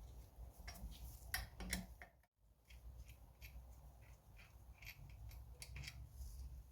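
Faint, scattered clicks and light metallic taps of hand tools working at a small engine's magneto, with a brief moment of total silence a little over two seconds in.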